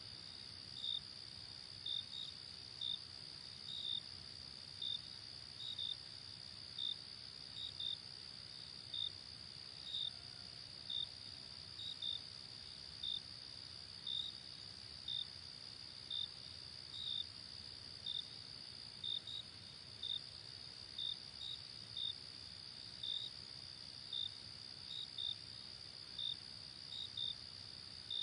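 Night chorus of crickets: a steady high-pitched trill with short, louder chirps repeating about once a second.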